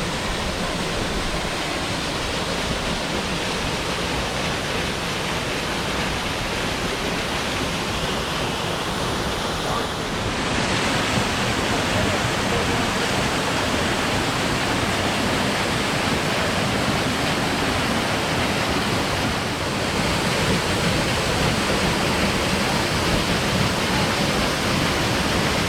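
Steady rushing of a waterfall and its creek, growing louder and brighter about ten seconds in.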